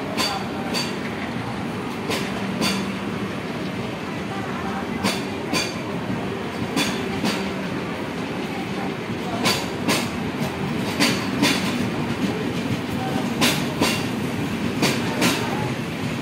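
Coaches of a passenger express rolling past with a steady rumble and pairs of sharp wheel clacks over the rail joints. The pairs come more and more often as the train picks up speed.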